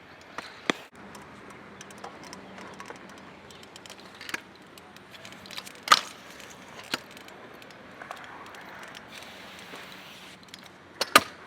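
Sharp clacks of stunt scooters striking concrete, five or so at uneven intervals over a steady background hum, the loudest about six seconds in and a quick double near the end.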